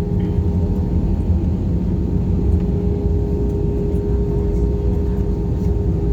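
Airliner cabin noise from inside the plane just after landing: a steady, loud rumble of engines and airflow with a constant hum running through it.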